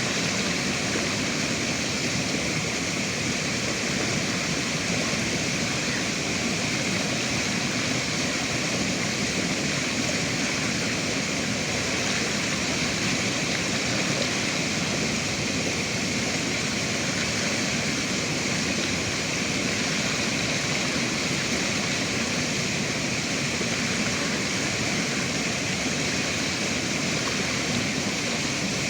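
River water rushing steadily, a continuous even noise with no breaks.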